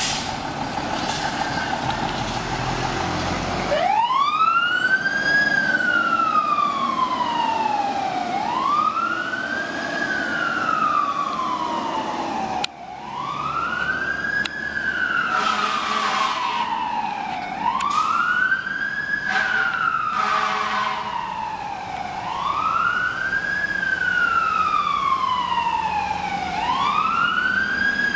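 Fire engine's diesel running as it pulls out, then its siren starts about four seconds in and wails over and over, each cycle a quick rise and a slower fall. Two horn blasts sound over the siren about midway.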